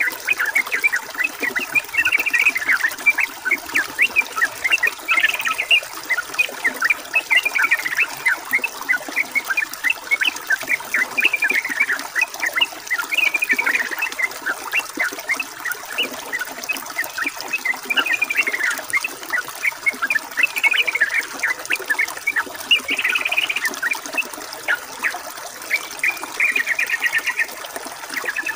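Yellow-vented bulbuls (trucukan) chattering and singing with a dense stream of quick chirps and short trills, ending in a few buzzy, rapid trills. A steady rush of running water lies underneath.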